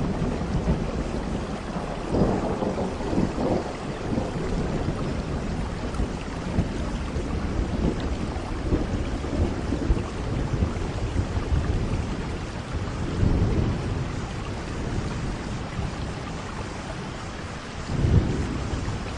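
Steady rain falling, with low thunder rumbling in three times: about two seconds in, a little past the middle, and near the end.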